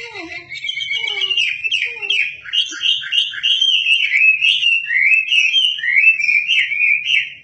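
A caged songbird of the kind Indonesian bird-keepers call wambi singing hard: a fast, continuous, varied warble of quick high notes, with a few falling mewing notes in the first two seconds. It breaks off just before the end.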